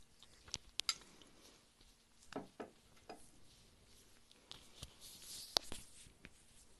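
Close-miked chewing and wet mouth sounds: scattered sharp clicks, with a soft breathy hiss about five seconds in.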